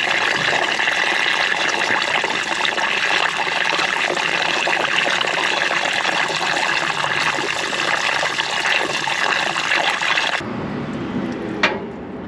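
Stale gasoline draining in a steady stream from a Ford 8N tractor's fuel tank into a catch funnel and container. The stream stops suddenly about ten seconds in, and a single sharp click follows near the end.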